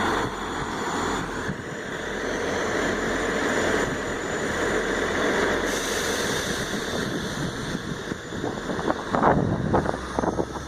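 A Class 159 diesel multiple unit's engines running steadily as it departs from the platform.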